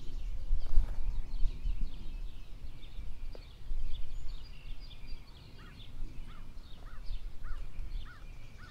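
Outdoor ambience of songbirds chirping over a low, uneven rumble. From about halfway, one bird repeats a short call about twice a second.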